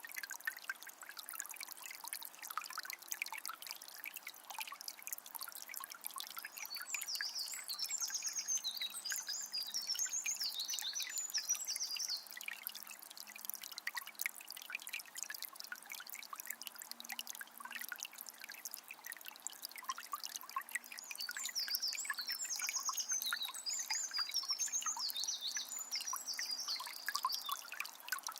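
Water of a small spring trickling and splashing steadily. A songbird sings two bouts of quick high chirping, one about a quarter of the way in and another about three-quarters through.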